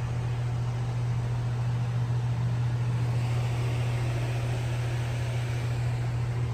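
Steady low machine hum with an even hiss over it, the hiss growing a little stronger around the middle: spray painting equipment running in a paint booth, with the spray gun hissing over the hum.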